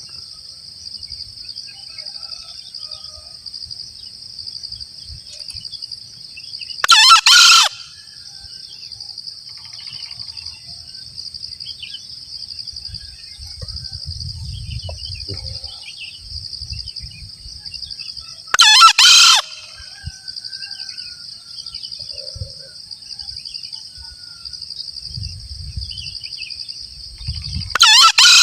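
Male green junglefowl crowing, three short loud crows spaced roughly ten seconds apart, over a steady high-pitched buzz.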